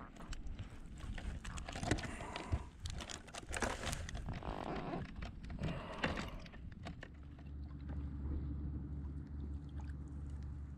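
Irregular knocks and clicks of handling on a fishing kayak, over water noise, giving way about seven seconds in to a steady low hum.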